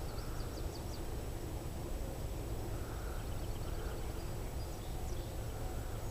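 Faint small-bird chirps, a quick run of short high notes about half a second in and a few more near the end, over a steady low outdoor rumble.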